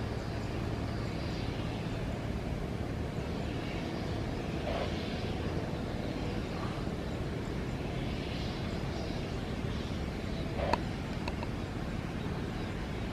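Steady low rumble of distant vehicle engines, with a single sharp click about eleven seconds in.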